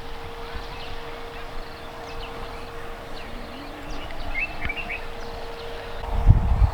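Outdoor ambience with birds chirping a few short calls, over a steady faint whine. A low rumble on the microphone near the end is the loudest sound.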